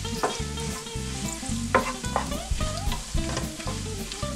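Strips of dried pasilla chile sizzling in hot oil in a nonstick pan on low heat, stirred with a wooden spoon that scrapes the pan a few times. Soft background music plays underneath.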